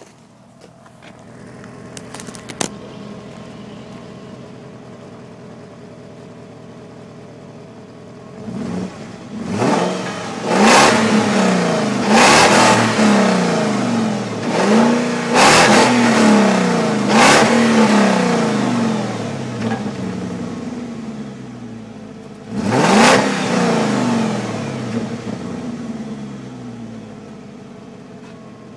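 BMW 740iL's V8 engine running at warm idle, then revved in a series of about six quick blips about a third of the way in, each rising and falling back, and settling back to a steady idle near the end.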